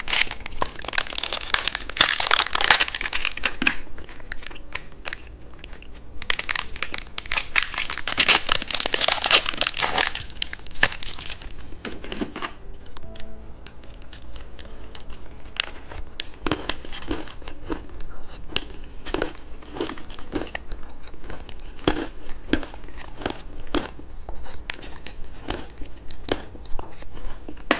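Plastic candy packaging crinkling and tearing in two long spells as it is opened, then a run of short crackles and clicks.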